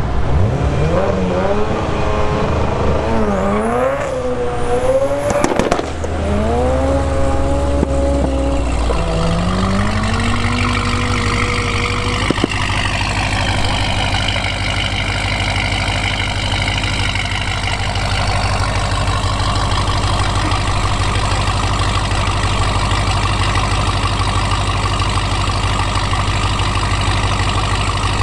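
Modified car engines revving and accelerating away, with several quick rises and falls in pitch over the first eight seconds or so, then an engine running at a steady pitch for the rest, rising again right at the end.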